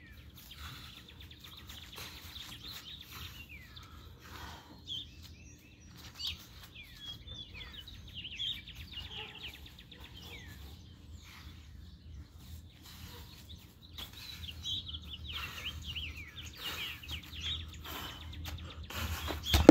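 Small birds chirping and calling repeatedly over a steady low outdoor rumble, with a single loud thump at the very end.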